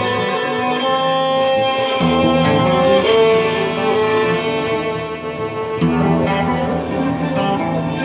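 Acoustic guitar and violin improvising together: the violin holds long sustained notes over low guitar chords, which stop and start again about two seconds in and near six seconds in.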